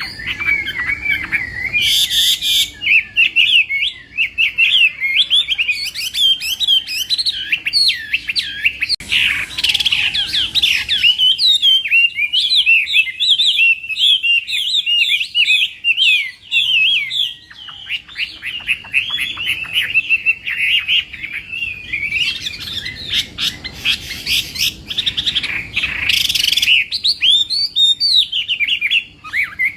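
Chinese hwamei (hoạ mi) singing its competitive 'fighting' song: a long, rapid run of varied whistled phrases, broken a few times by brief harsher bursts.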